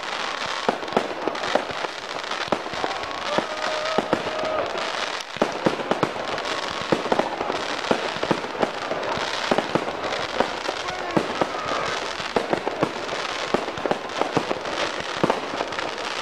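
Aerial fireworks bursting: a dense, continuous crackle of crackling-star shells, peppered with many sharp pops and bangs.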